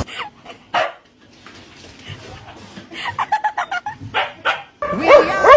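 Dog barking and yipping in short bursts, with a quick run of yaps about three seconds in and louder, higher yelps near the end.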